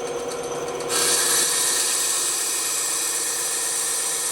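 Bandsaw running with a steady hum. About a second in, the blade bites into the wood and a loud, even sawing hiss starts and holds as the cut goes on.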